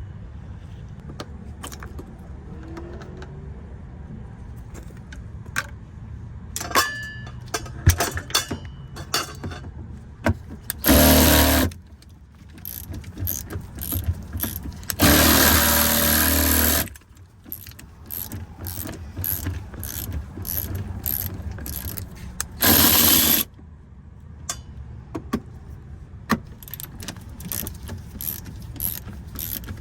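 Hand ratchet clicking in short runs as fasteners are worked on a car, broken by three louder bursts of steady noise, each a second or two long.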